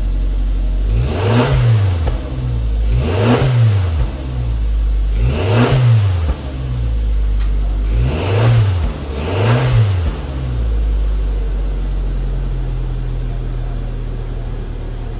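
Suzuki Jimny Sierra JB74's 1.5-litre four-cylinder idling through a new JAOS BATTLEZ ZS TC aftermarket muffler, blipped five times. Each rev rises and falls straight back to idle, and it idles steadily after the last blip about ten seconds in.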